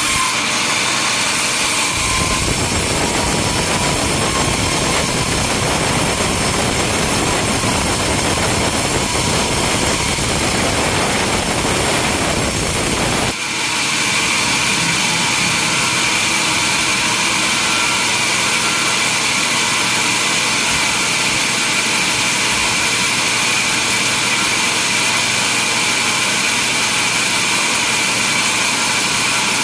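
Sawmill machinery running steadily, with a saw cutting through wood for the first part. About halfway through, the sound changes abruptly to a steady engine-like run with a constant high whine.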